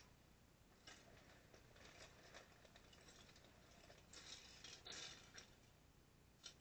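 Faint scattered clicks and rattles of small plastic Lego pieces being handled and pressed into place, a few sharper clicks about four to five seconds in.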